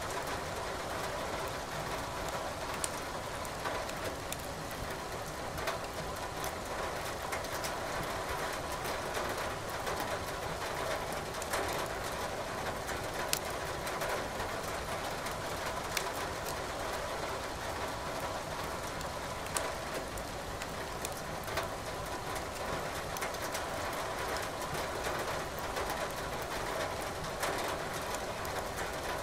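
Steady rain noise with a wood fire crackling in a fireplace: sharp pops of burning firewood every few seconds over the even hiss.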